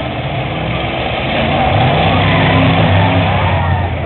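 Demolition derby car engines running and revving, their pitch rising and growing louder from about a second and a half in.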